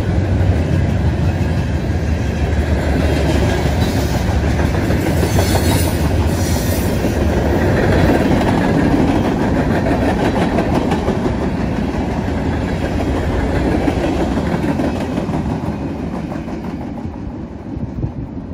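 Freight cars of a Norfolk Southern manifest train rolling past on their steel wheels: a loud, steady rail rumble that fades over the last few seconds as the end of the train goes by and recedes.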